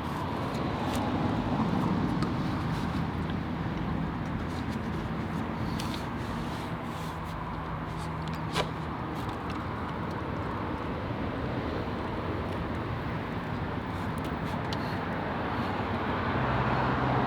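Steady road traffic noise from nearby freeway ramp traffic, cars running past in a continuous wash, with one short click about eight and a half seconds in.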